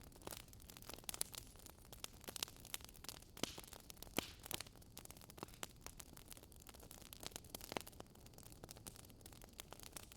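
Campfire burning with a soft steady hiss and frequent irregular crackles and pops of burning wood, a few sharper pops standing out.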